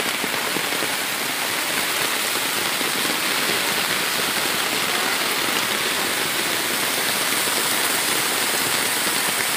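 Heavy rain pouring steadily, a dense even hiss, with rainwater rushing over the ground.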